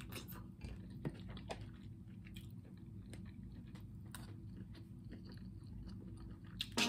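Soft mouth sounds of eating: chewing and biting into sauce-dipped smoked sausage and then a spoonful of rice, with scattered small clicks.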